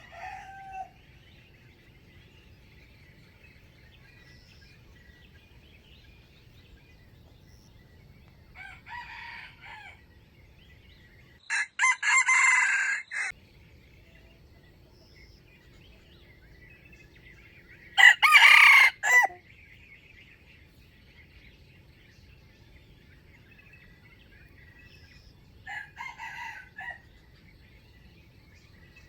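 Wild junglefowl roosters crowing: four short crows several seconds apart, the second and third much louder and closer than the first and last. Faint small-bird chirping lies underneath.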